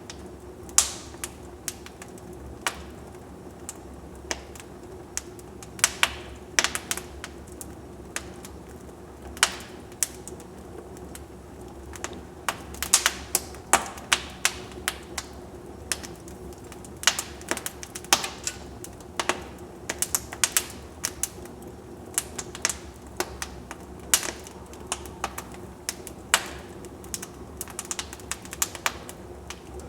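Wood fire burning in a fireplace, logs crackling and popping in irregular sharp snaps over a steady low rumble of the flames.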